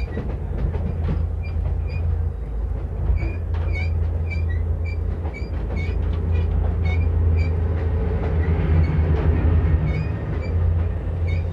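Moving commuter train heard from inside the carriage: a steady low rumble, with short high squeaks repeating about twice a second.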